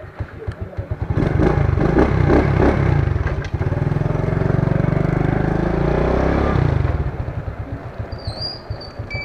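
Motorcycle engine heard from the bike: it runs with a slow, even pulse, revs up as the bike pulls away, and stays loud for a few seconds. It then eases off, and near the end is back to the slow pulsing beat.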